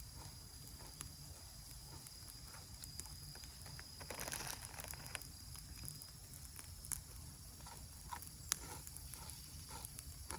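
Wood campfire crackling faintly, with scattered small pops and a couple of sharper snaps. A short rustling noise about four seconds in.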